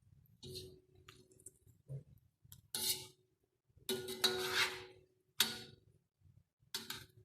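Metal utensil knocking and scraping against a cooking pot in about five short, separate strokes, the longest one near the middle, each leaving the same brief ring from the pot.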